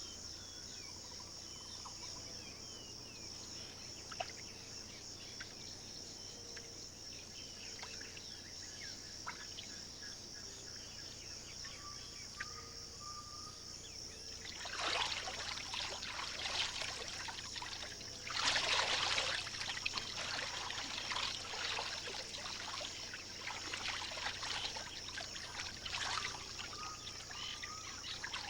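Steady high-pitched insect chorus with a few faint bird calls. From about halfway, irregular splashing and sloshing of water sets in, loudest a little past the middle.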